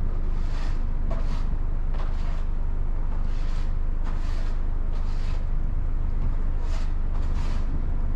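Steady low rumble of a car on the move, with short hissing swishes coming every second or so at uneven intervals.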